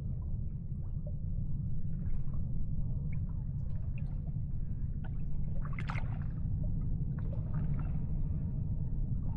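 Water gurgling and lapping over a steady low rumble, with a few small splashes or knocks and a brief louder splash about six seconds in.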